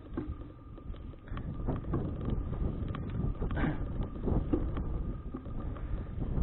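Wind rushing over an action camera's microphone on a moving bicycle: an uneven low rumble, with a few short clicks and rattles.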